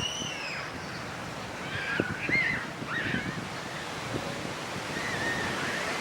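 Ocean surf washing in a steady hiss with wind buffeting the microphone, over which a few short, high calls rise and fall: near the start, about two to three seconds in, and again about five seconds in.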